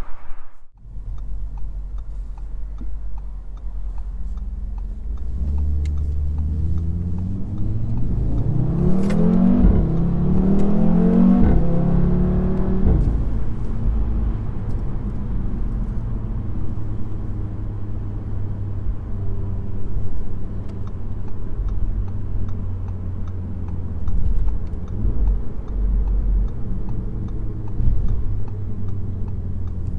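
Sports car engine pulling hard under acceleration, its pitch climbing and dropping back at two gear changes, then settling into a steady drone at speed.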